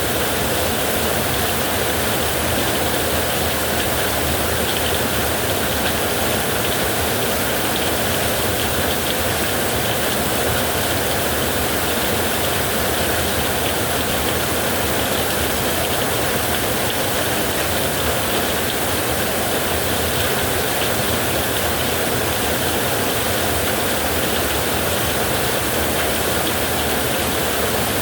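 Heavy rain falling steadily, a dense even hiss without separate drops or breaks.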